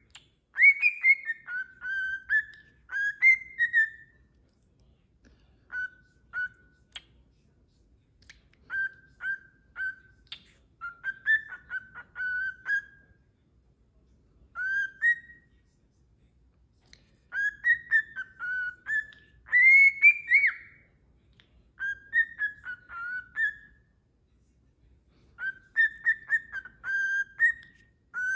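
Pet parrot whistling runs of clear, short notes with small clicks among them, in repeated bursts of one to four seconds separated by brief pauses.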